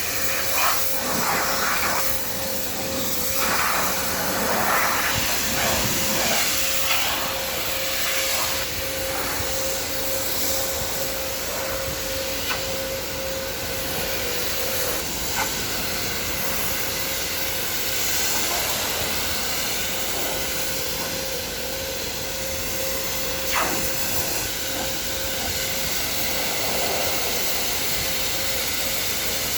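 Car wash equipment hissing steadily, with a steady machine whine that fades about halfway and a few light clicks.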